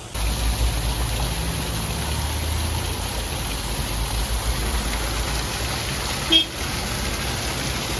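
Artesian spring water pouring steadily from spouts on the mountainside, an even rushing noise, heavier and deeper in the first few seconds. A brief short tone, like a distant horn toot, sounds about six seconds in.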